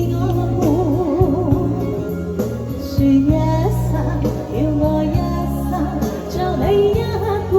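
Live performance of a Mandarin pop ballad over a karaoke backing track: a female singer's melody line with strong vibrato over steady bass notes.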